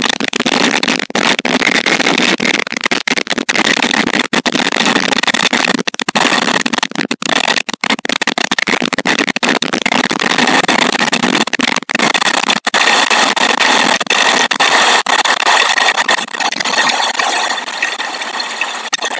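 A loud, dense rush of heavy rain and wind on the nest camera's microphone during a thunderstorm, with many brief cut-outs.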